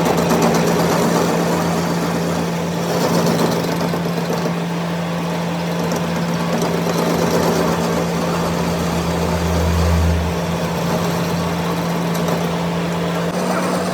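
A machine engine or motor running steadily at a constant pitch. A deeper hum swells for a couple of seconds about eight seconds in.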